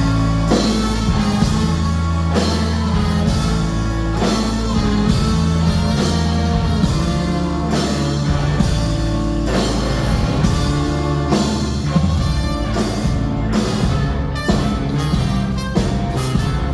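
Ska-punk band playing live and loud: drum kit hitting a steady beat under bass and electric guitar, with some singing.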